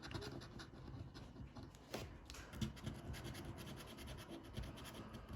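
A scratch card being scratched off: faint, quick rubbing strokes across the card's scratch-off coating, with a slightly sharper tick about two seconds in.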